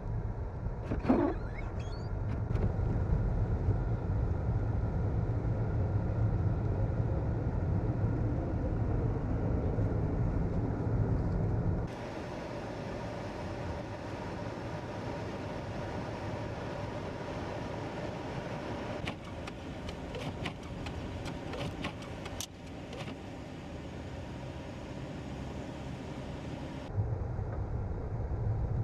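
Motor vehicle running on a snowy road: a steady low rumble, broken by an abrupt change to a thinner hiss with a run of sharp clicks and knocks about twenty seconds in, then the rumble again near the end.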